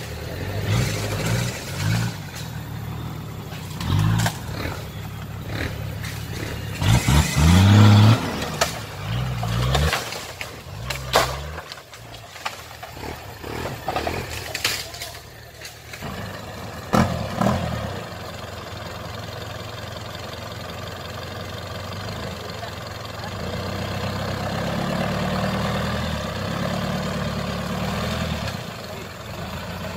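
Toyota Land Cruiser hardtop's engine revving hard in repeated bursts, pitch climbing, as it pulls up a muddy off-road track, blowing exhaust smoke. After a sharp knock, an engine keeps running steadily at a lower pitch, swelling a little near the end.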